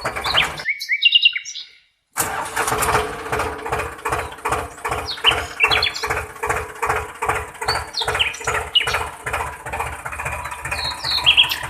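Small motor-driven homemade tractor cultivator running with a regular clatter about three times a second. It cuts out briefly and starts again about two seconds in, with birds chirping over it.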